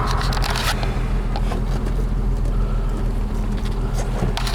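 The 1960 Jaguar Mk 2's 3.8-litre straight-six engine running steadily, heard from inside the car, with a few sharp clicks in the first second and again near the end.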